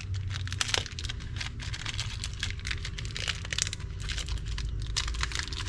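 Plastic packaging crinkling and rustling as it is handled, in a dense run of small crackles.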